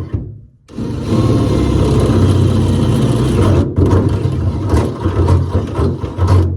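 Power drill running as it bores a pilot hole through the pickup's double-layered sheet-metal roof. It stops for a moment about halfway and starts again.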